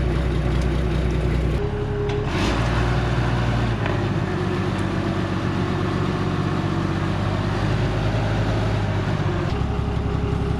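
A motor vehicle engine running steadily with a low hum, its pitch jumping abruptly to a new steady note a few times.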